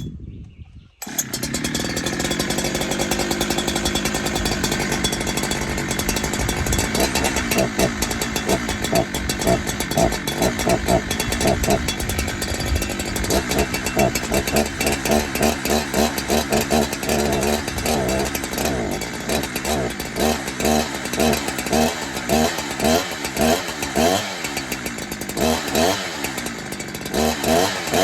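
Husqvarna 372XP kit-built chainsaw's two-stroke engine, just cold-started on its stock muffler, warming up. After a brief gap near the start it runs steadily, then from about eight seconds in it is blipped on the throttle again and again, the revs rising and falling about once or twice a second.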